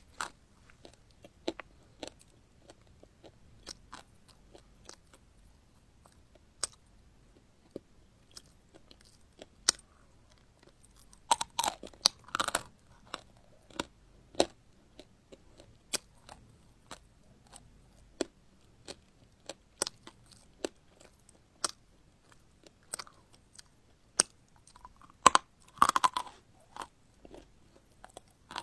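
Close-miked chewing of crunchy food: a run of sharp, separate crunches and crackles, with two louder, denser bursts of crunching about twelve seconds in and near the end, like fresh bites.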